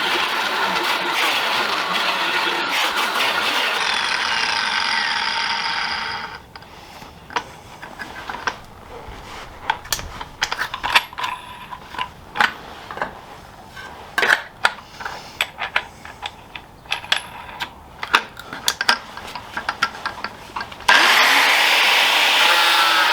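Angle grinder cutting 6 mm steel sheet, running steadily for about six seconds before it stops. A quieter stretch of scattered knocks and clicks follows, and the grinder starts cutting again near the end.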